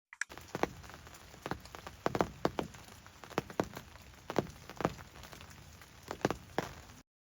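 Rain falling steadily, with heavy drops tapping irregularly and sharply on a nearby surface. The sound starts and cuts off abruptly.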